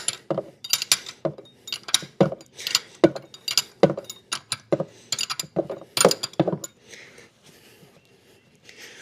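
Metal wrench clicking and clinking in quick repeated strokes as a 17 mm wrench tightens a bolt on an outboard motor. The clicks go quiet for the last second or two.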